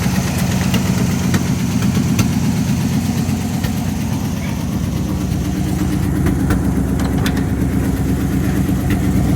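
1978 Jeep J20 truck's engine idling steadily, an even low running note with no revving; about six seconds in it sounds a little duller.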